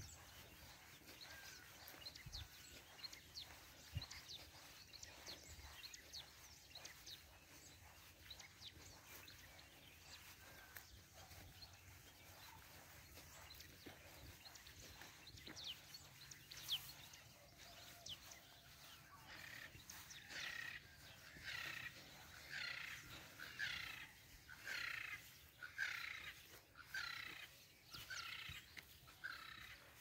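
Birds calling: scattered short, quick chirps, then from about twenty seconds in a run of about a dozen louder repeated calls, a little more than one a second.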